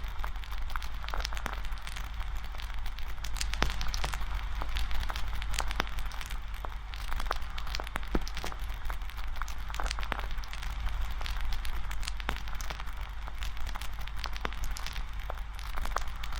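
Wood campfire burning, with frequent irregular sharp crackles and pops over a steady hiss and a low rumble.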